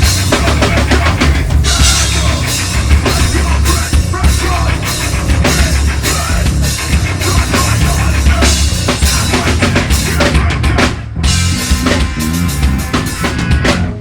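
Live heavy metal band playing loud, with the drum kit to the fore: a hard-driving kick drum and snare under the band. The music breaks off briefly about eleven seconds in, then the drums carry on.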